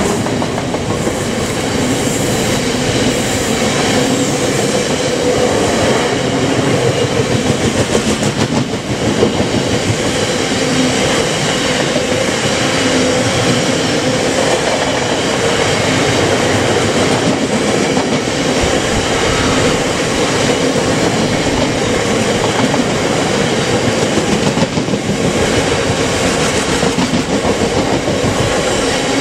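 A freight train's tank wagons rolling past at speed, a loud steady rumble of steel wheels on the rails with a clickety-clack over the rail joints.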